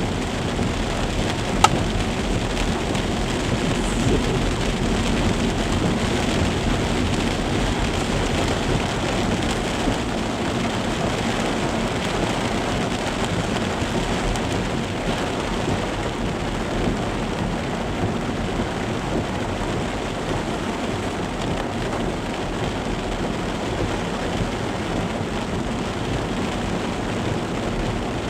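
Heavy cloudburst rain falling steadily, with one sharp click about one and a half seconds in.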